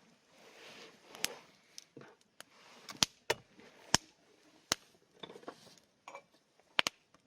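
Wood fire crackling: irregular sharp pops and snaps of burning wood, a few of them loud, over a faint hiss.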